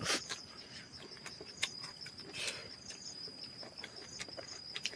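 Insects, crickets by the sound, chirring steadily at a high pitch, with scattered light clicks and taps over it.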